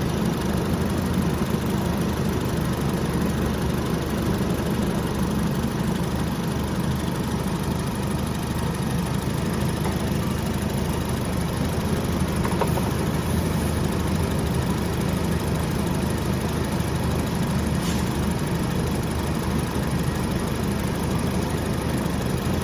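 Alfa Romeo Giulietta Quadrifoglio Verde's 1.75-litre turbo four-cylinder idling steadily, with the air conditioning switched on during a refrigerant recharge.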